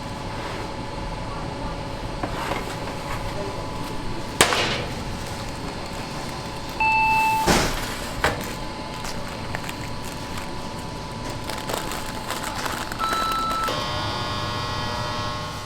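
Bakery kitchen work noise: a steady background hum with scattered knocks and clatter, a short steady beep about seven seconds in, and a steady pitched machine hum near the end.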